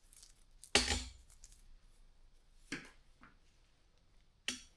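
Bicycle chain being handled for installation: three sharp clacks, the loudest about a second in, the others near the middle and near the end.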